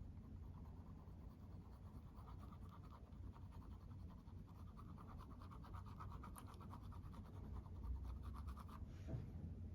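Makeup tool scratching and rubbing in quick, even strokes against a surface, stopping shortly before the end.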